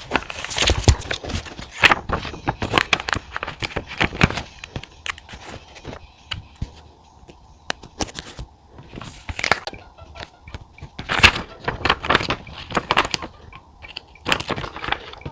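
Close-up handwriting with paper handling: irregular scratching pen strokes and small crackling clicks on paper.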